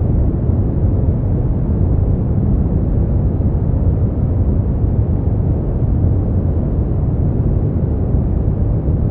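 Steady generated sleep-aid noise, a deep, even hiss with most of its weight in the low end and nothing bright on top, unchanging throughout.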